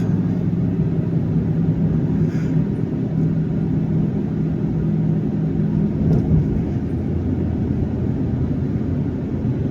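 Dodge Dakota pickup's V8 engine running under way, a steady low rumble with road noise from the truck being driven.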